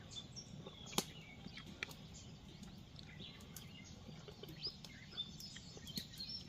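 Faint outdoor ambience of small birds chirping here and there, with a few sharp clicks, the loudest about a second in.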